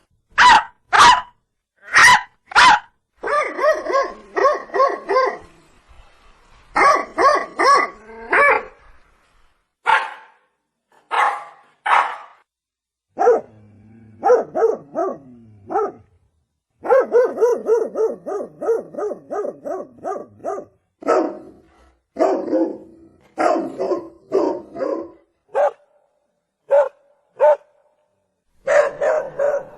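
Dog barking over and over, in bursts of several barks with short pauses between them, including quick runs of many barks in a row.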